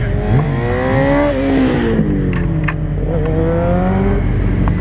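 Racing motorcycle engines revving up and down on a start grid. The pitch climbs for about a second, falls away, and rises again about three seconds in, with a few sharp clicks in between.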